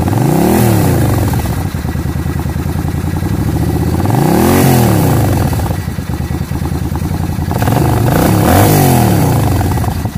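Motorcycle V-twin engine idling, revved three times with short throttle blips that rise and fall back to idle. The revs are given to check the balance between the front and rear carburettors on vacuum gauges.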